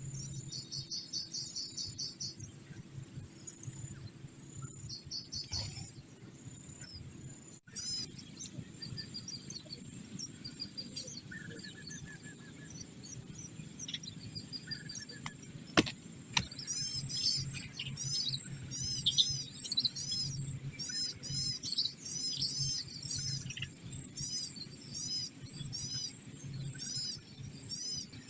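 Small birds chirping in quick runs of short high arched notes, sparse at first and busy through the second half, over a steady high insect drone and a low hum. One sharp click about halfway through.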